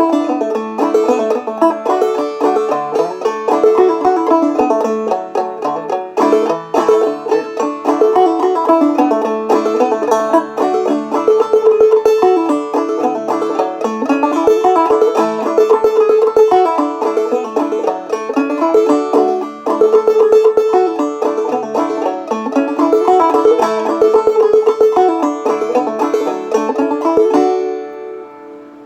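Five-string banjo played clawhammer style: an old-time tune of quick plucked notes over a ringing drone string. Near the end the playing stops and the last chord rings out and fades.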